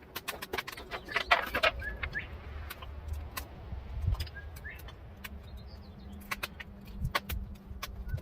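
Scattered metallic clinks and rattles over a low steady rumble, with a few short rising bird chirps.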